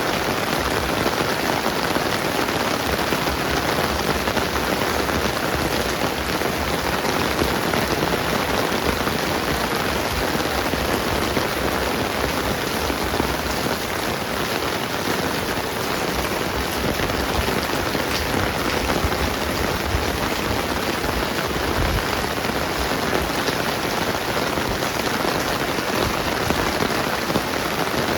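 Steady rainfall, an even hiss of drops on the ground and surfaces that keeps up without a break.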